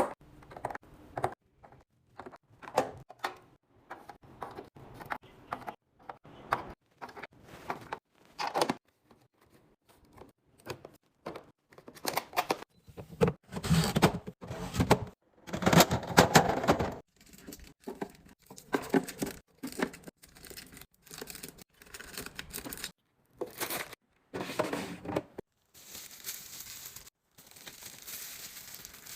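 Plastic packaging crinkling and tearing as items are unwrapped, with many small clicks and knocks of things being handled and set down. Longer stretches of rustling come about halfway through and again near the end.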